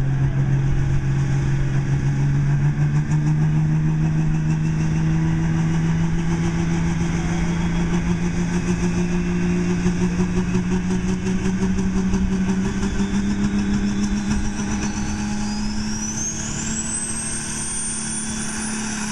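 Diesel pickup truck pulling a sled under full power, its engine note climbing slowly and steadily in pitch. A high whistle rises over it in the last few seconds.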